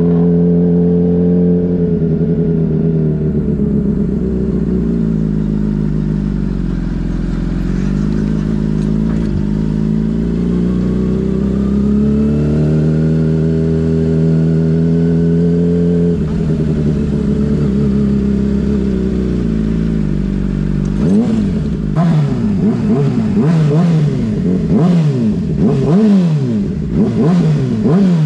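Motorcycle engine running steadily, its pitch sagging and recovering slowly a couple of times. About three-quarters of the way through it is revved repeatedly, the pitch rising and falling about once a second.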